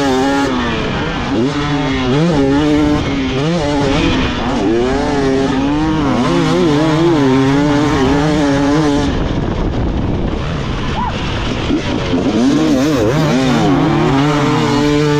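Dirt bike engine revving up and down over and over as the throttle opens and shuts on the track. It backs off about nine seconds in, then pulls hard again from about twelve seconds.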